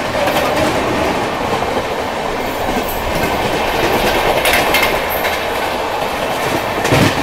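Indian passenger train running at speed, heard from aboard: a steady rolling rumble and clatter of wheels on rail, with a few sharper clacks, the loudest near the end.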